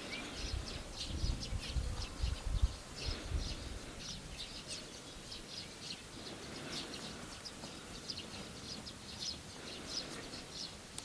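Outdoor ambience of many small birds chirping, short high calls scattered throughout, with low rumbling thumps during the first few seconds.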